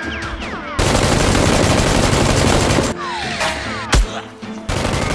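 Rapid automatic gunfire sound effect: a burst of about two seconds starting about a second in, a single sharp shot near four seconds, and another burst near the end, over background music.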